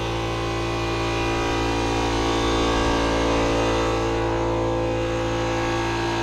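A motor running steadily with a steady hiss over it, swelling slightly in loudness midway.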